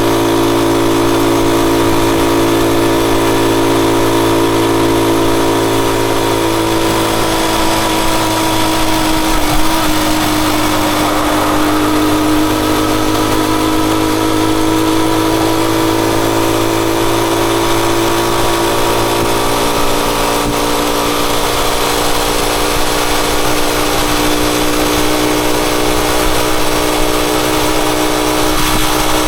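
Motorcycle engine running steadily, its pitch dipping slightly about a third of the way in and slowly rising again.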